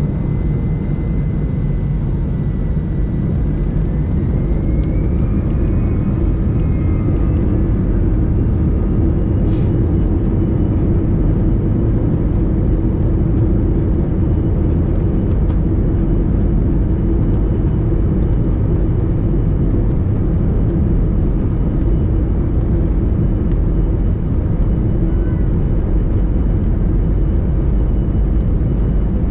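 Airbus A321 engine and airflow noise heard inside the cabin during takeoff: a loud, steady, deep rumble with a thin whine that rises in pitch a few seconds in.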